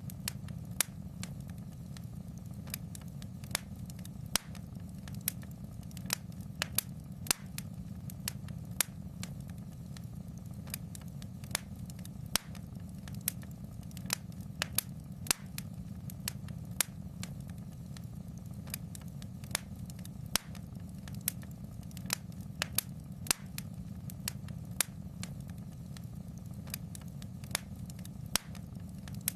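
Fireplace fire crackling: irregular sharp pops, one to three a second, over a steady low rumble.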